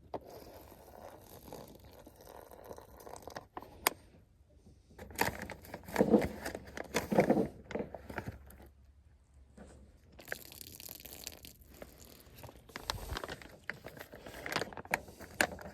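Crinkling and rustling of a foil freeze-dried meal pouch being handled, with scattered sharp clicks and crunches, loudest about five to eight seconds in.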